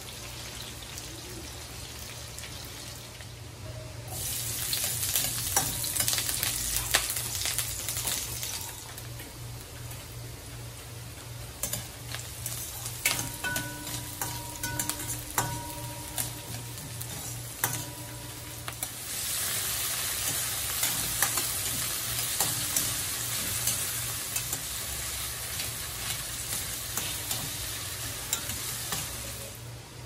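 Onion, garlic and tomato sizzling as they are sautéed in a stainless steel wok, stirred with a metal spatula. The sizzle swells twice, and between the swells the spatula clinks and scrapes against the pan, which rings briefly.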